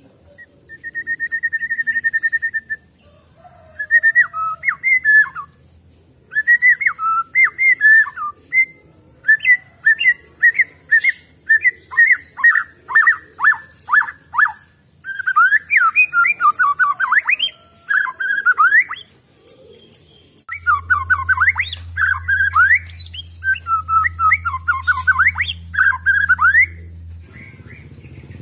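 White-rumped shama (murai batu) singing a long, varied song of loud whistled phrases, with an even trill about a second in and runs of fast repeated notes later.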